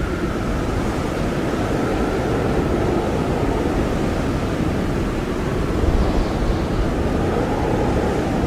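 Blizzard wind blowing steadily and hard, a deep rumbling rush with a faint whistling howl that slides slowly down in pitch.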